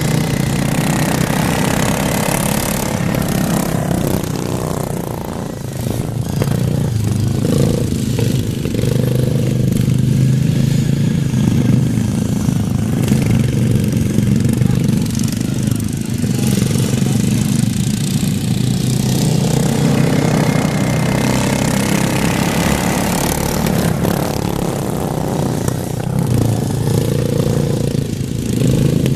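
Racing lawn mowers' engines running steadily together through the heat, the sound swelling and easing a little at times.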